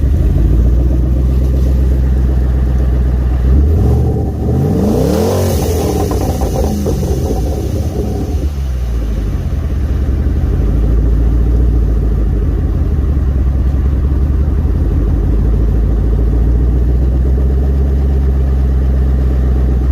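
Twin-turbocharged Ford Coyote 5.0 V8 in an S197 Mustang running with a deep, steady rumble. About four seconds in it revs up and falls back, with a burst of hiss from the blow-off valve as the revs drop, then settles back into a steady low-speed run.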